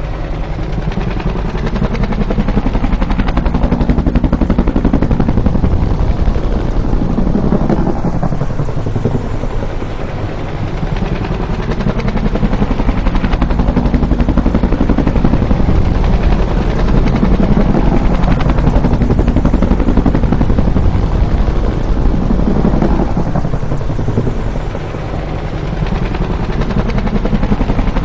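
Bell UH-1 Huey helicopter's two-blade main rotor beating in a rapid, steady thudding as the helicopter flies by. It swells and fades, dipping about ten seconds in and again near the end.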